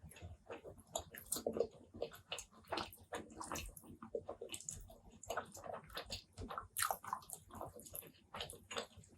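Close-miked wet chewing and mouth sounds of someone eating spicy pork curry with rice: many short, irregular wet clicks in quick succession.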